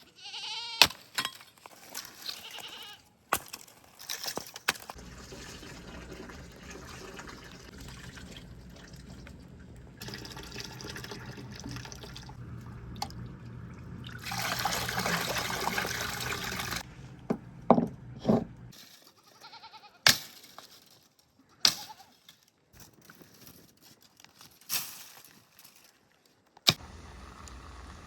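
Liquid pouring and splashing amid scattered knocks and clicks of handling, with a low steady hum through the middle stretch.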